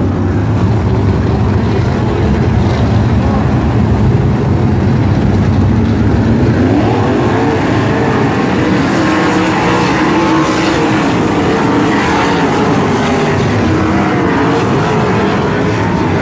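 Sprint cars' V8 engines running at speed around the track, a steady loud mass of engine noise with pitches that rise and fall, plainest in the second half.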